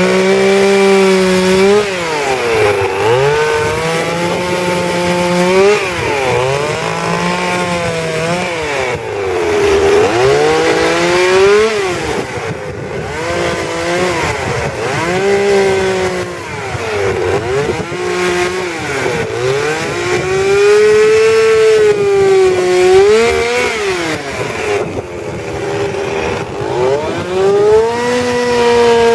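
Two-stroke chainsaw running at high revs while carving wood. Its engine pitch dips and recovers again and again as the chain bites into the wood and is eased off.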